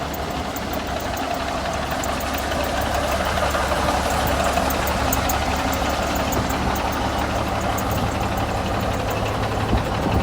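Cummins diesel engine of a 1980 Marmon cab-over truck idling steadily, with a light diesel clatter.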